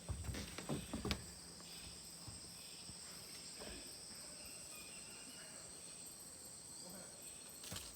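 Rainforest insect chorus: a steady, high-pitched, unbroken trilling, with a few soft knocks in the first second.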